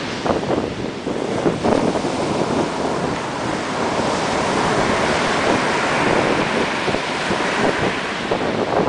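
Ocean surf washing onto a beach, a steady hiss that swells through the middle, with wind buffeting the microphone in gusts.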